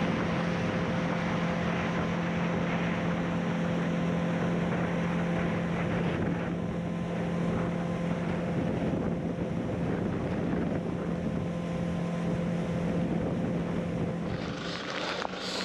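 Boat's outboard motor running steadily with an even hum, wind buffeting the microphone.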